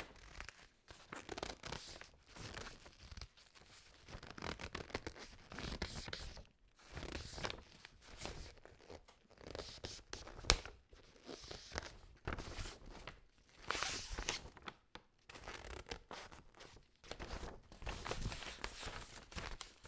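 Irregular rustling and crackling, like cloth or a bag rubbing close to the microphone, with one sharp click about halfway through.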